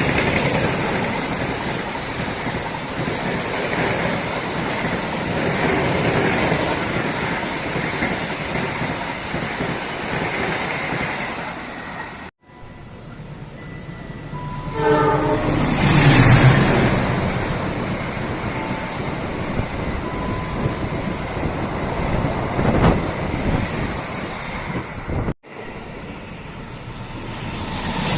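Trains running past on the track with a steady rumble of wheels, in three short clips that cut off sharply. About halfway through, a train horn sounds, and then a train rushes past at its loudest. Near the end another train can be heard approaching.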